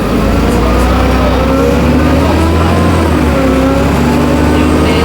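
Dennis Trident double-decker bus's diesel engine running steadily under load, with the whine of its turbocharger rising and falling in pitch over a deep engine hum.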